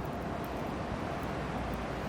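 Hardwood fire burning in a small fire stand, a steady low rush of flames with no distinct crackles.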